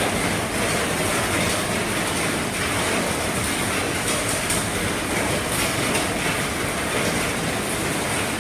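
Heavy rain drumming steadily on an RV's roof, a dense even patter with many individual drop ticks.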